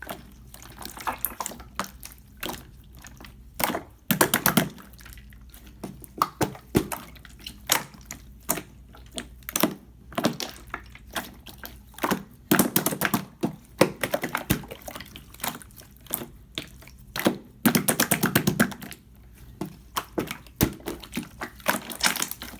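Clear slime being squished and pressed by hand: a run of sticky clicks and pops, with three longer bursts of dense crackling about four, twelve and eighteen seconds in.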